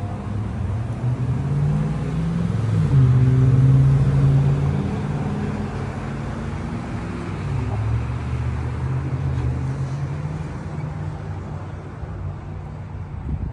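A motor vehicle's engine running, its pitch rising and falling, loudest about three to four seconds in and easing off toward the end.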